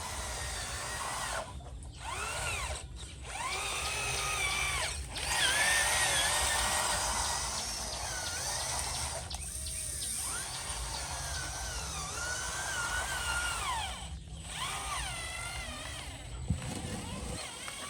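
Small electric motors of RC construction models whining, the pitch rising and falling again and again as they are throttled up and down, with a few short pauses.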